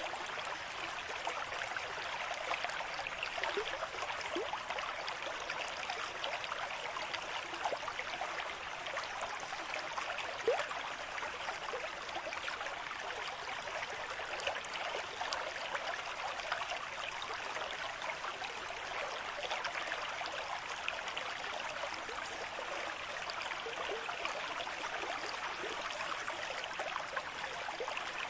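Running water, as of a small stream, babbling steadily and full of small splashes and drips.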